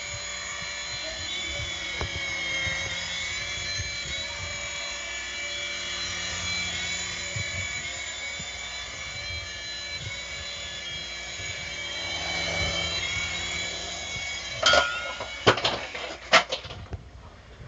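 Small electric motors of a toy RC helicopter running in flight, a steady high whine that wavers a little in pitch, on a battery that is not fully charged. A few sharp knocks near the end.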